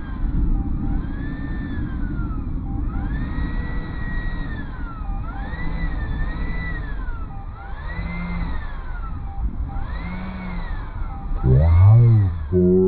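RC airplane's motor whining, its pitch sweeping up and down every second or two as the plane is throttled and flown past, under heavy wind noise on the microphone. Near the end a louder pitched sound wavers for about a second.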